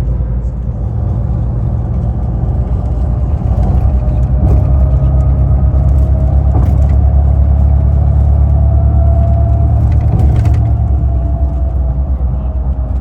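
A road vehicle running, a steady low rumble of engine and road that grows louder about three and a half seconds in and eases back near ten seconds, with a faint wavering hum above it.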